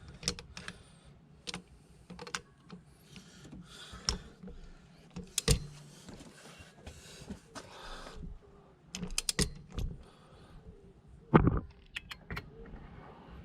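Scattered sharp clicks and metallic clinks of hand tools and engine parts being handled, with soft rustling between them. There is a quick cluster of clicks past the middle and a louder knock near the end.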